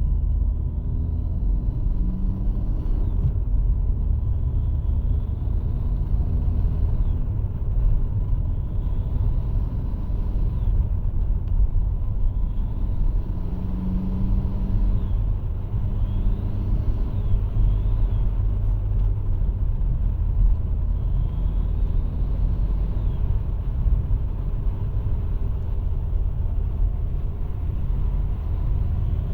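Opel Corsa C 1.3 CDTI turbodiesel engine running, with a faint high whistle that rises and falls several times as the revs go up and down: the weird turbo noise the owner hears on acceleration, though the engine pulls with no loss of power.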